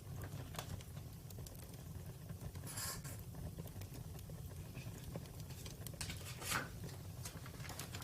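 Campfire crackling: a steady low rumble of burning under scattered small snaps, with a louder pop about three seconds in and another about six and a half seconds in.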